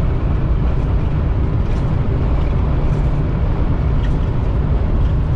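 Steady low rumble of road and engine noise inside a semi-truck's cab at highway speed, on worn road pavement.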